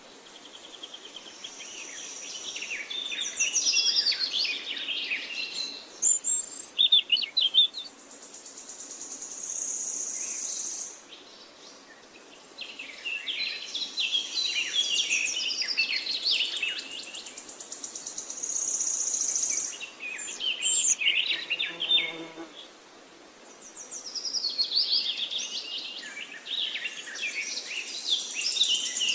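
Birds singing and chirping in repeated bursts of quick phrases, with a high, steady buzzing trill in between.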